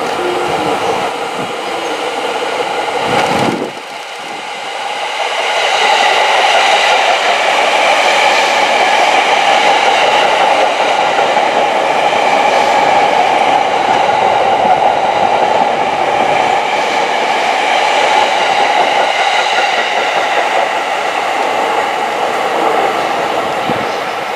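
JR East E231 series 800 subseries electric train passing through a station without stopping: a steady rolling rumble of wheels on rail with several steady high tones over it. It grows louder about four seconds in as the train comes alongside and dies away near the end as the last cars clear.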